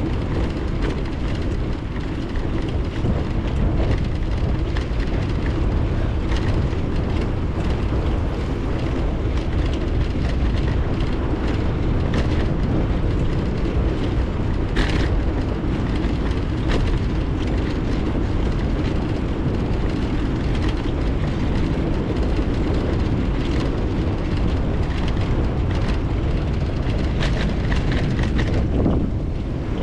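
Wind rushing over an action camera's microphone while riding a bicycle, with the rumble of tyres rolling over the road and scattered light clicks and rattles, one sharper click about halfway through.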